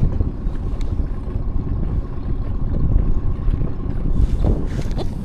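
Wind buffeting the microphone aboard a small boat, a steady low rumbling noise with a faint steady tone above it.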